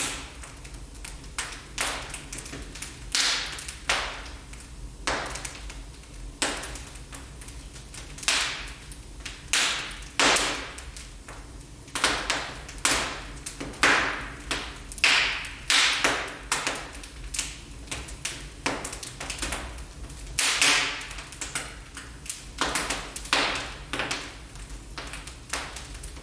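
Wood fire burning in a fireplace, crackling and popping at irregular intervals over a low steady rumble of the flames.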